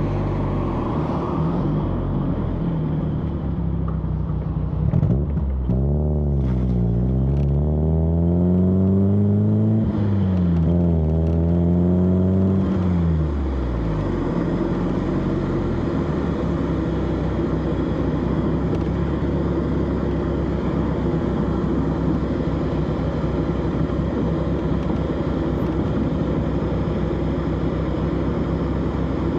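Exhaust of a 1991 BMW E30 316i's four-cylinder engine on the move. About five seconds in, the revs climb, dip briefly and climb again, as when accelerating through a gear change, then fall away near the middle to a steady low drone.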